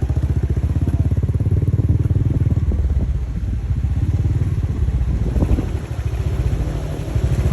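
Motorcycle engine running with an even low throb under road and wind noise, easing off briefly about six seconds in.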